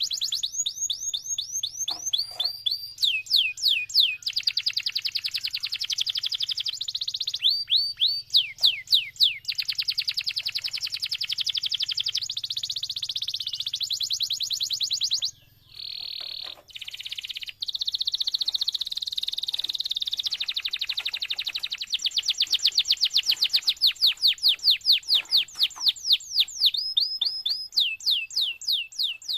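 Domestic canary singing a long, continuous song of rapid high trills and rolls, with runs of quick downward-sweeping chirps. A brief break comes about halfway through, then the song picks up again.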